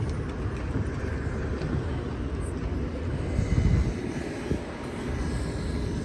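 Steady low rumble of street and road noise during the carriage ride, with a brief louder swell a little past halfway.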